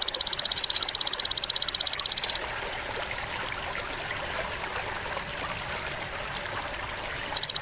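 Belalang emas (golden grasshopper) stridulating: a loud, high, rapidly and evenly pulsed buzzing trill. It stops a little over two seconds in, leaving only faint hiss, and starts again near the end.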